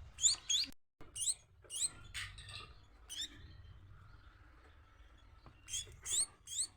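Baby Bengalese finch (society finch) chick giving short, high begging cheeps that each rise in pitch, a few a second. They thin out and pause midway, then come faster again near the end, the hunger calls of a chick being hand-fed.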